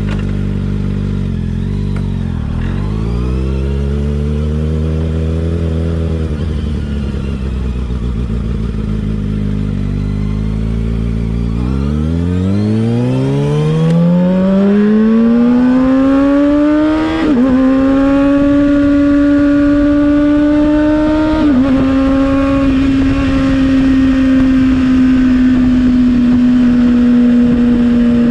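Kawasaki ZX-6R inline-four with an M4 slip-on exhaust: low, uneven engine sound at low revs for about twelve seconds, then a long rise in pitch under acceleration. Two brief dips in pitch mark gear changes, and it settles into a steady note at higher revs.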